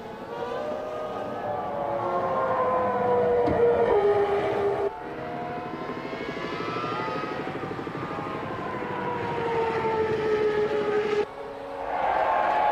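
Formula One car engines running at high revs, their pitch gliding slowly down and back up as the cars pass. The sound breaks off abruptly twice, about five and eleven seconds in, as the shots change.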